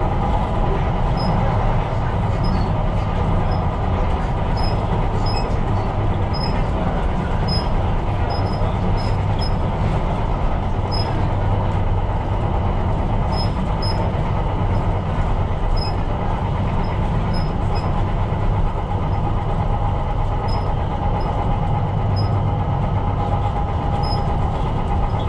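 Tyne & Wear Metro train running along the line, heard from the cab: a steady rumble with a constant hum and faint, irregular high ticks.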